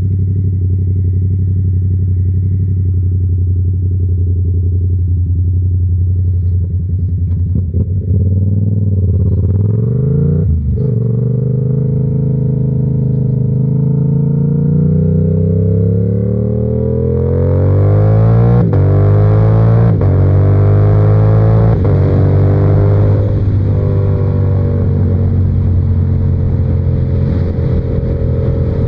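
Yamaha R7's parallel-twin engine running steadily at low revs, then pulling away and accelerating up through the gears, with the revs climbing and dropping at each shift. It settles to a steady cruise near the end, with wind noise rising.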